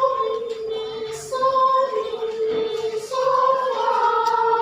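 Children's choir singing slow held notes in three short phrases, each stepping down a note. In the last phrase the voices split into two parts.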